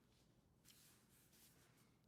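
Faint pencil strokes scratching lines on a drawing board, two or three short strokes.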